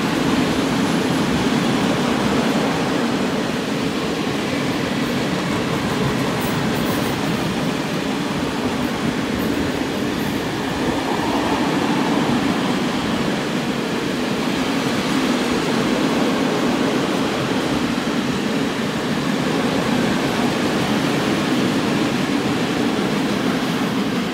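A freight train of open-top gondola wagons rolling steadily past, with the continuous rumble of wheels on the rails.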